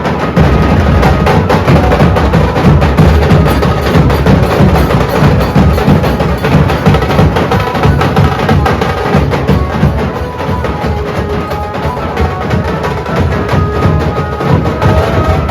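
Mumbai-style dhol band playing a fast, loud rhythm: deep dhol beats under dense, sharp, rapid strokes.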